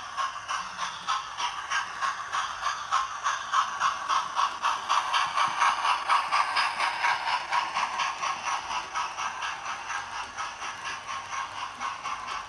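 Hornby TTS sound decoder in a model Flying Scotsman playing steam-locomotive exhaust chuffs through its small speaker, in a quick, even rhythm as the model runs at speed. The sound is thin, with little bass.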